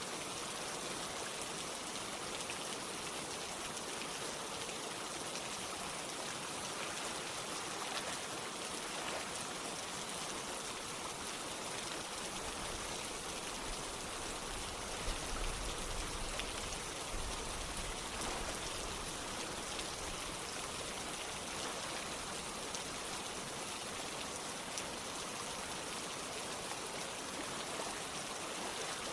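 Steady rain with running water: an even hiss that holds the same level throughout, with a faint low rumble underneath for a few seconds mid-way.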